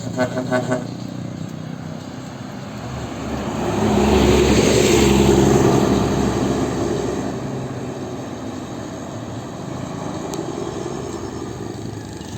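A heavy road vehicle passing, its engine and road noise swelling to a peak about four to six seconds in and then fading. At the very start there are four quick horn toots.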